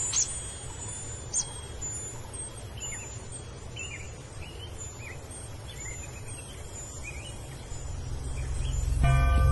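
Small birds chirping in short calls every half second to a second over a steady low rumble. Near the end the low sound swells and sustained musical tones come in.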